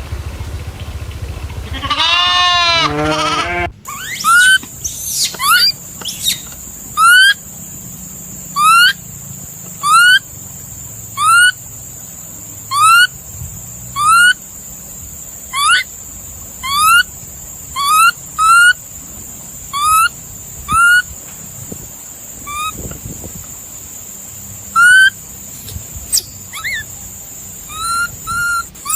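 An animal giving short, sharp upswept calls over and over, about one a second, over a steady high hiss. Just before them, a longer falling call cuts off abruptly.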